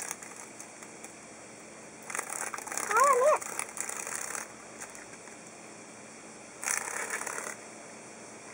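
A cicada giving harsh rasping buzzes in two bursts, the first about two seconds long and the second under a second, as it is caught and handled by cats. A short wavering cry rises and falls about three seconds in.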